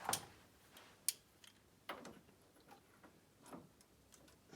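Light metal clicks and knocks, about one a second, as a snowmobile gearbox is taken apart by hand: spacers, washers and gears being lifted out after the chain tensioner is slackened.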